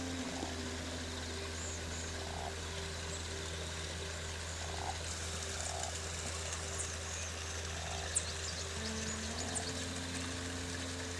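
Frogs croaking at irregular intervals, about once a second, with high thin bird or insect chirps over a steady low hum and soft held tones.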